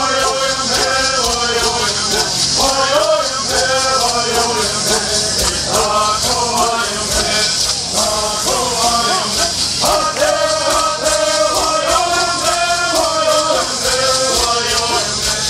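Southern California bird song: a group of male singers chanting together, with gourd rattles shaken in a steady rhythm under the voices.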